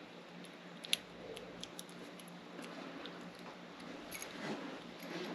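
Small metallic clicks and light handling noise from a lock cylinder's parts being worked by hand during rekeying, with one sharper click about a second in.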